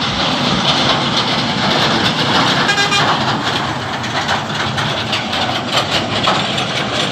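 Mitsubishi Canter truck running on the road, with steady engine and road noise. A short horn toot sounds about three seconds in.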